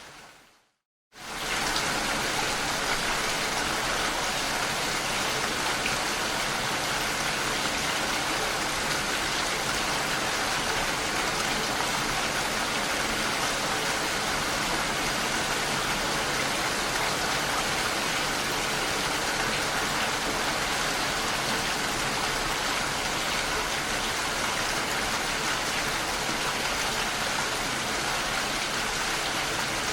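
Recorded heavy rain. After about a second of silence it cuts back in abruptly, as at a loop or track join, then falls steadily with an even hiss.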